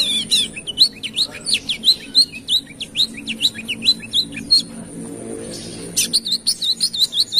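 Sunbird (kolibri kelapa) singing: a rapid run of sharp, high notes, several a second, for about four and a half seconds. After a short pause a second fast run follows near the end.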